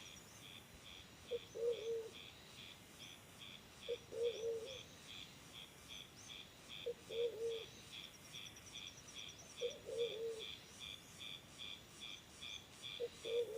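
Low two-part cooing bird call, repeated five times about three seconds apart, over steady high insect chirping at about two pulses a second. A brief high bird trill comes near the start and again about halfway through.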